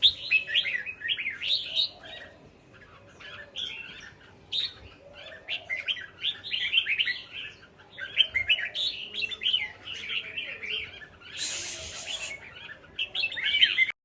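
Red-whiskered bulbuls chirping and chattering in quick runs of short notes, with short pauses between the runs. A brief rustle comes about two seconds before the end.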